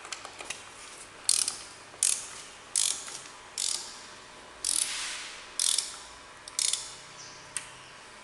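Hand ratchet wrench being worked on an engine bolt, its pawl rasping on each back-swing: about eight short strokes, roughly one every 0.8 seconds.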